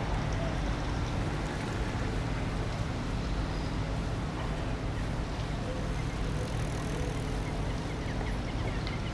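Steady road noise of engines running, with a low, even hum throughout.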